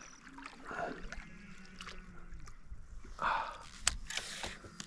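Scattered small water splashes and handling noises on a kayak as a small Murray cod is held after landing, with a sharp knock about four seconds in.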